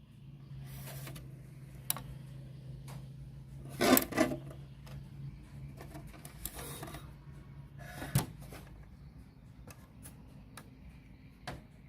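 Scattered clicks and knocks of small hard objects being handled, with a steady low hum underneath; the loudest is a quick double clatter about four seconds in, and another sharp knock comes about eight seconds in.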